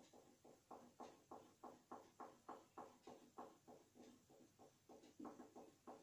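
Crayon colouring in quick, even strokes, about three a second, faint and steady.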